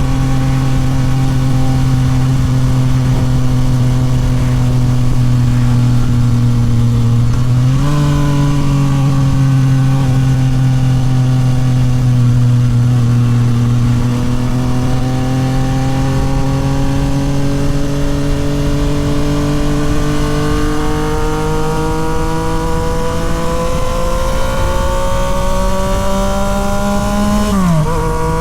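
Yamaha MT-09 SP's three-cylinder engine through a Toce full exhaust, heard from on board while riding. The revs step up quickly about eight seconds in, climb steadily through the second half, then drop sharply near the end at a gear change, with wind noise underneath.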